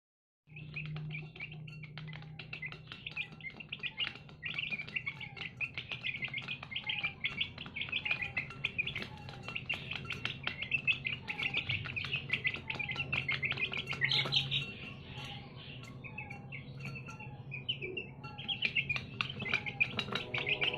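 Many small birds chirping and peeping rapidly and continuously, over a steady low hum.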